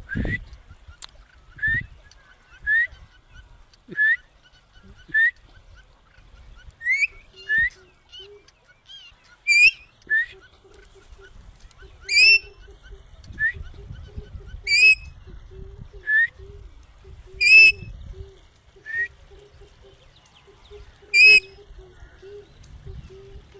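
Green parrot giving short, sharp calls, one every second or two, some much louder than others.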